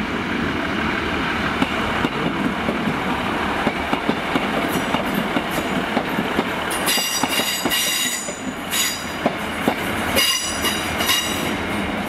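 A two-car Class 150 Sprinter diesel multiple unit running past close by, its wheels clicking in a regular rhythm over the rail joints. From about seven seconds in the wheels squeal in short high-pitched bursts, three times.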